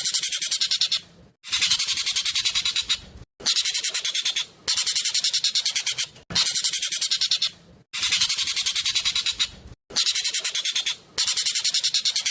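Jovin (ekek keling) bird singing loudly in fast, tight bursts. Each burst is a rapid rattle of sharp, high notes lasting about a second and a half, repeated about seven times with short pauses between.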